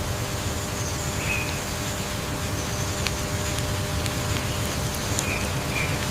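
Outdoor nature ambience: a steady rumbling hiss with a faint high buzz like insects, and a few short bird chirps, once early and three times near the end.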